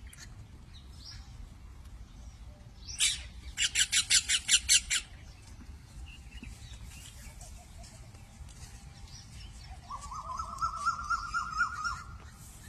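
Indian peafowl calling: a loud call about three seconds in, followed at once by a rapid run of about eight short, sharp calls, and later a longer wavering call.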